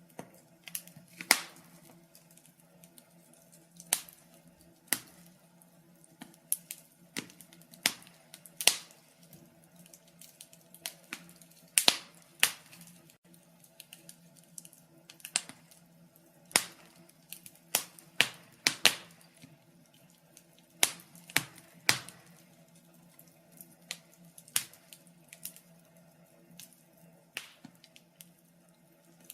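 Wood fire crackling: irregular sharp pops and snaps, several a second at times, over a faint steady low hum.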